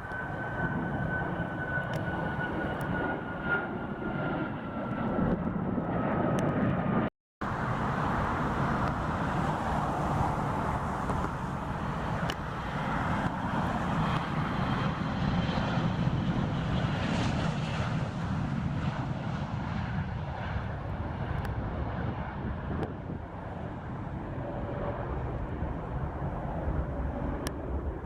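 Jet aircraft engines passing close by, a steady rumble with a high whine that slowly falls in pitch over the first several seconds. The sound drops out for a moment about seven seconds in, then the engine noise carries on.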